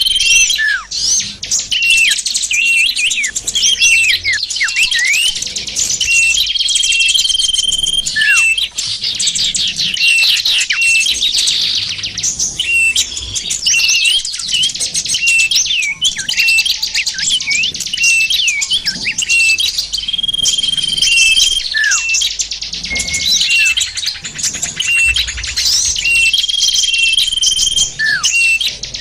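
Bird-lure recording of many small songbirds calling at once: a dense, unbroken mix of high chirps and quick downward-sweeping notes, with a held whistle that recurs a few times.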